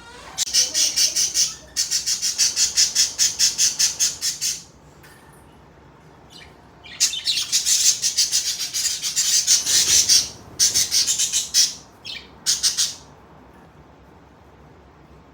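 Budgerigars calling in rapid, harsh pulsed runs of one to three seconds, about seven pulses a second, with short pauses between runs, falling quiet near the end.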